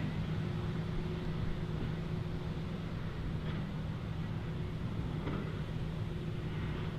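Farm tractor's diesel engine running steadily at an even, unchanging pitch.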